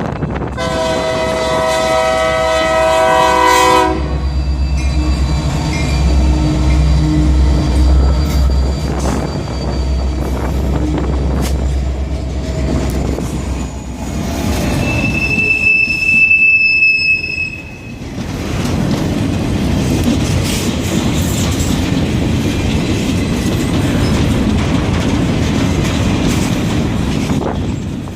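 A passing train: its locomotive air horn sounds a multi-note chord for about three seconds, then the diesel engine rumbles. About midway a high steady wheel squeal rings for two or three seconds, then the train's cars roll by with a dense, steady clatter over the rails.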